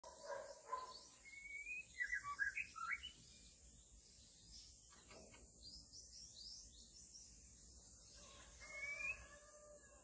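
Songbird calls: a burst of rapid, varied whistled notes about two seconds in, scattered chirps in the middle and a rising whistle with held notes near the end, over a steady high hiss.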